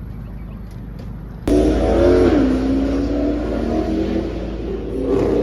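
Car engine running with a low rumble, then suddenly louder about a second and a half in, revving with its pitch dipping and then holding steady.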